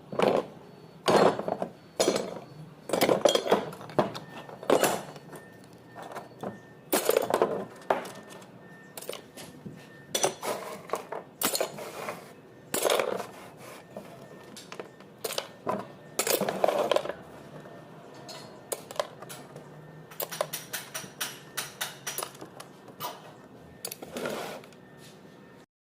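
Metal tools and alternator parts knocking and clinking in irregular sharp strikes, with quieter handling noise between them, during work on a tractor alternator's slip ring.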